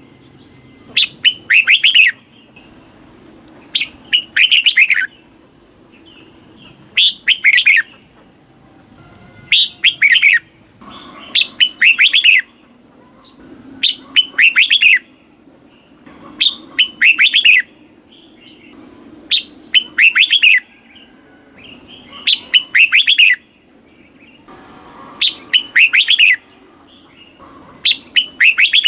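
Red-whiskered bulbul singing: short bright phrases of quick, rippling notes, each about a second long, repeated about every two and a half seconds, over a faint low hum.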